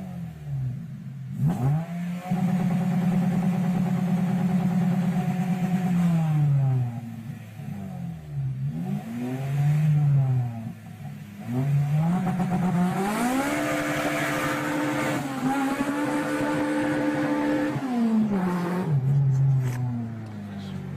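Honda K20 inline-four engine revved hard: it climbs and holds high revs for a few seconds, drops back, gives a couple of short blips, then climbs and holds high revs again before falling away near the end.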